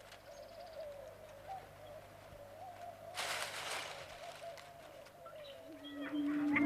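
Male sage grouse display sounds on a booming ground: a faint wavering call throughout, with a brief swishing, popping burst from the inflated air sacs about three seconds in. A strong, steady low hoot begins near the end.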